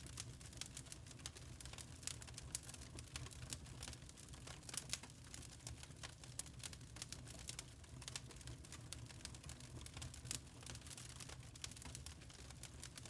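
Burning charcoal crackling: a dense, irregular stream of small pops and snaps over a low steady rumble.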